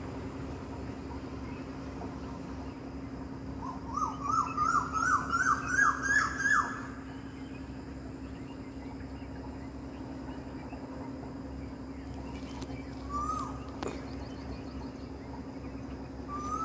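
A bird calling over a steady low hum: a quick run of about ten short upswept notes that climb higher in pitch over some three seconds, then two single notes later on.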